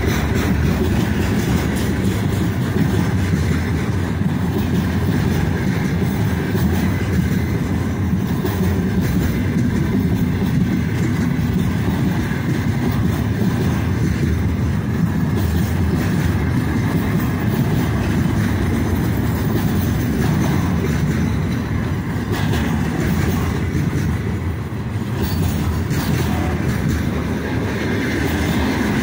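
Wheels of a long freight train's container flat wagons rolling steadily past close by on the rails, the noise sitting mostly low.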